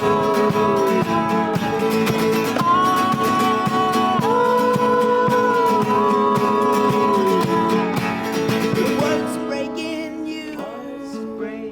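Acoustic band music: strummed acoustic guitar under long held, sliding melody notes. The music thins and fades near the end.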